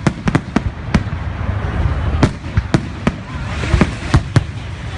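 Fireworks going off: a rapid, irregular string of sharp bangs, several close together in the first second and more spread through the rest. A faint crackle comes up briefly near the end, over a steady low rumble.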